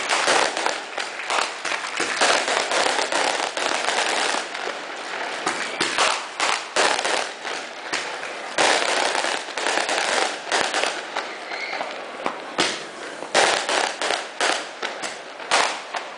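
A string of firecrackers going off in rapid, dense cracks that come in uneven waves with short lulls.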